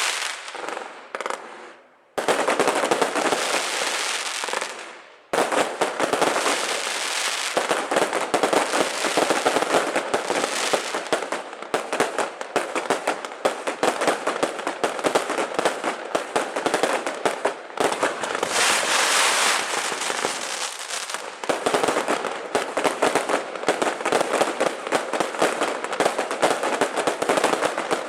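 Long strings of firecrackers going off in a dense, rapid crackle of pops. It breaks off briefly about two seconds in and again near five seconds, then runs on without a pause.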